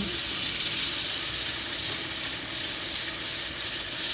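Steady hissing spray of water on coralina stone tiles, even and unbroken.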